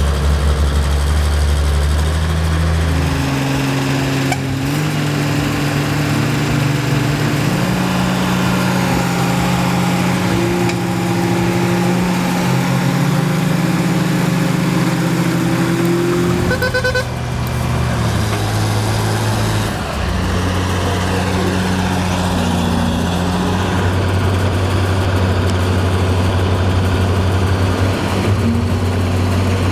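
Heavy diesel engines of a logging truck and crawler bulldozers running hard together, the engine notes holding steady and then shifting in steps every few seconds. A brief high-pitched tone sounds about 17 seconds in.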